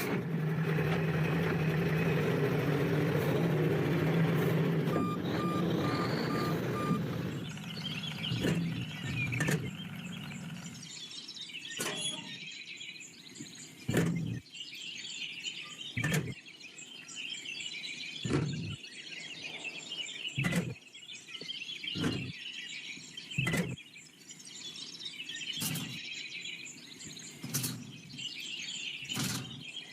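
A small motor, likely the DIY mini tractor's, hums steadily for about the first eight seconds, then fades out. After that, birds chirp outdoors and a sharp knock comes about every two seconds.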